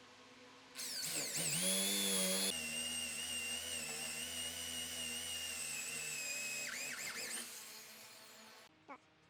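A small electric power tool's motor spins up with a rising high whine about a second in, runs steadily for several seconds, then winds down and stops near the end.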